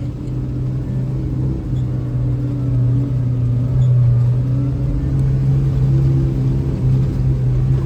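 Engine of a six-passenger Kawasaki Ridge side-by-side running steadily under way, a low drone heard from inside its enclosed cab.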